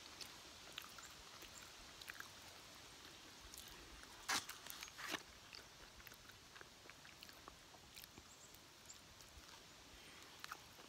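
Quiet chewing and biting into fried chicken strips, with scattered small crackles and two sharper clicks about four to five seconds in.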